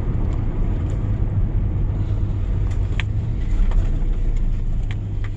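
An old pickup truck's engine running with a steady low rumble, with a few sharp clicks over it in the second half.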